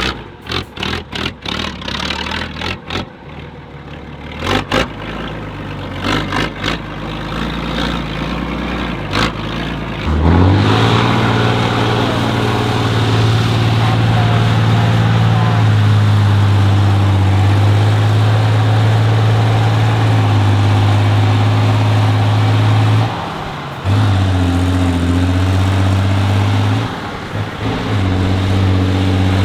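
Heavy off-road trial truck's engine under load. The first ten seconds are uneven knocks and thumps over a lower engine note. From about ten seconds in it settles into a loud, steady drone, which dips briefly twice near the end.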